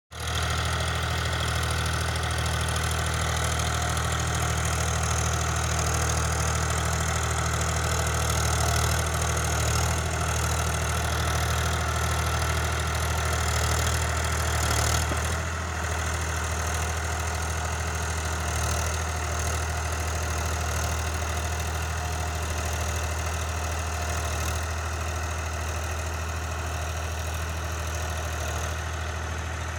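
Powertrac Euro 50 tractor's diesel engine running steadily with a strong low drone, easing off slightly about halfway through.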